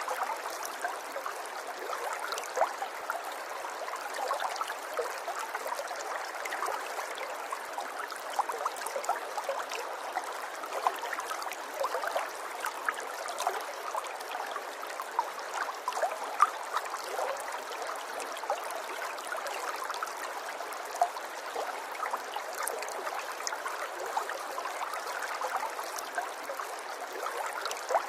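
River water flowing and gurgling softly, a steady wash of small splashes and trickles.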